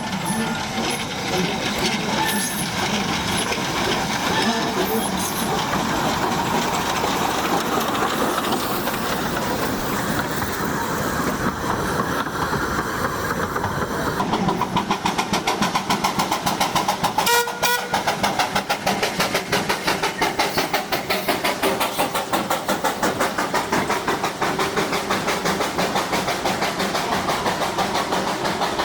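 Darjeeling B Class 0-4-0 saddle-tank steam locomotive running on narrow-gauge track. At first it gives a steady hiss and rumble; about halfway through, fast, even exhaust chuffs of about four to five a second set in as it works along. There is a short whistle toot partway through.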